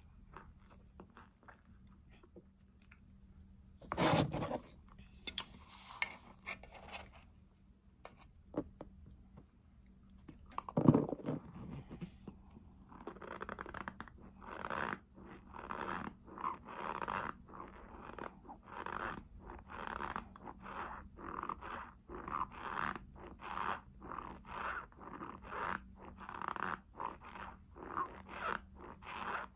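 Crunchy chunks of cornstarch being chewed close to the microphone. Two louder crunches come in the first half, then steady rhythmic chewing at about one and a half chews a second.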